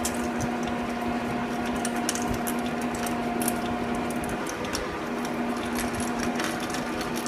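Metal lathe running at low speed with a steady hum from its drive while a twist drill cuts into cold-rolled steel, with faint ticks throughout; the hum briefly drops out about four and a half seconds in.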